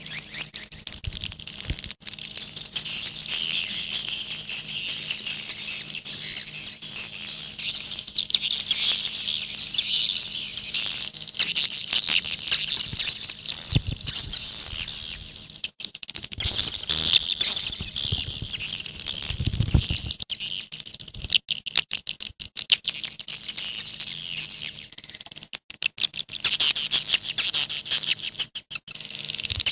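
Swiftlets twittering: a dense, continuous chorus of rapid high chirps, breaking off briefly about 16 seconds and 26 seconds in. A faint steady hum lies underneath.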